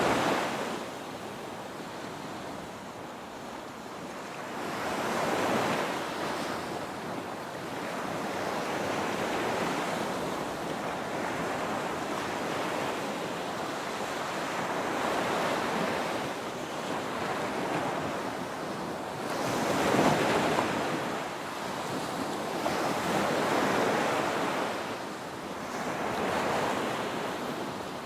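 Ocean waves breaking and washing up a beach, a continuous surf roar that swells and ebbs every few seconds, with wind on the microphone.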